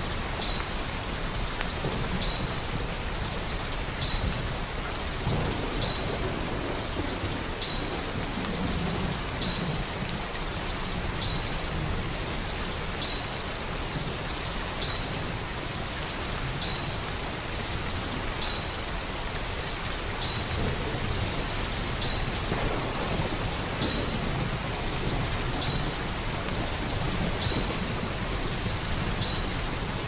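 A bird's short high chirp repeats evenly, roughly once a second, over a steady rush of falling water.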